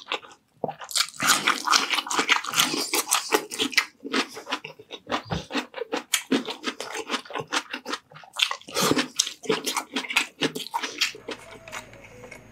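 Close-miked mouth sounds of eating: loud crunching bites of raw cucumber and chewing, in quick irregular runs with short pauses. The crunching stops about eleven seconds in, leaving faint music.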